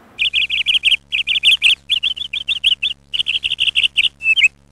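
Small bird chirping: quick high twittering notes in fast runs of several, with short breaks between the runs, over a faint steady hum.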